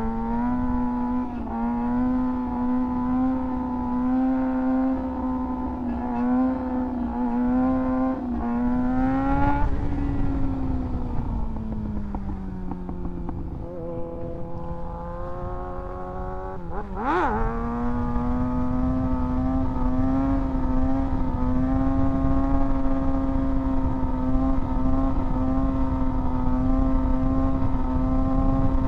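2024 Kawasaki ZX-6R's inline-four engine running at steady high revs under way. About ten seconds in the revs ease off and sag. Near the middle there is a quick rev blip as it changes gear, and then it holds a steady, higher pitch.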